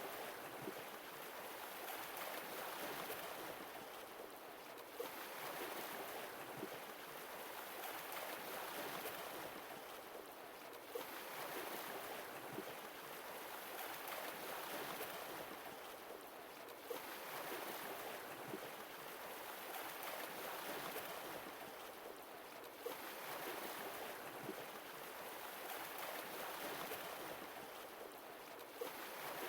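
Sea waves washing in and out, swelling and ebbing about every six seconds, with a light tick as each new swell begins.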